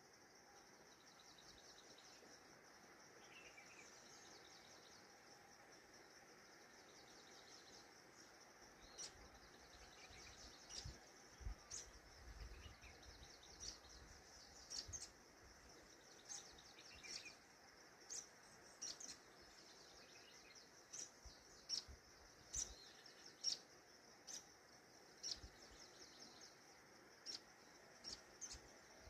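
Faint bird chirps: short, sharp, high calls repeating irregularly, coming more often after the first third. Under them runs a steady high-pitched trilling.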